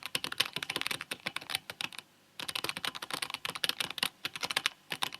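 Rapid typing on a computer keyboard, a quick run of key clicks that pauses about two seconds in, resumes, and stops abruptly at the end.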